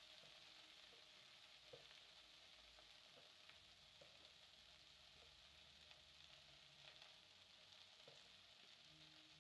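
Faint sizzling of chopped sukuma wiki (collard greens) cooking in a pot on a gas burner, with a few light taps of a wooden spoon against the pot.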